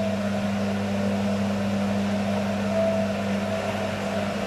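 Beko washing machine running with a steady low mechanical hum and a fainter higher drone, a motor sound the owner calls not good while the drum is clogged with excess suds.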